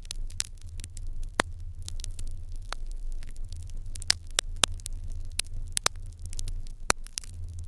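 Fire in an irori hearth crackling, with irregular sharp pops and snaps, a few each second. A steady low hum runs underneath.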